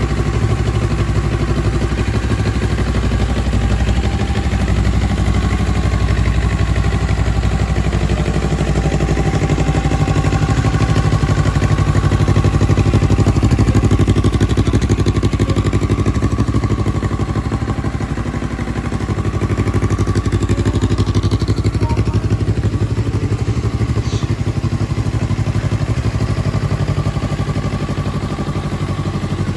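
CFMOTO 750 CL-X Sport motorcycle engine running steadily at around idle, its level swelling and easing slightly now and then.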